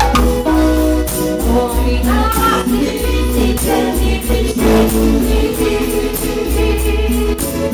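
Cumbia music played by a band: a deep bass line and held melody notes over a steady percussion beat.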